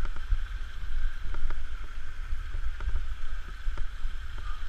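Small waterfall splashing steadily, with wind buffeting the microphone in an uneven low rumble and a few faint clicks.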